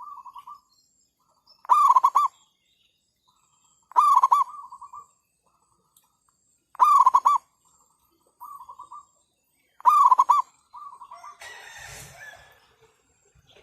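Zebra doves singing: loud, rapid trilled cooing phrases every two to three seconds, several followed by a fainter answering trill from a second dove. Near the end comes a short stretch of rustling noise.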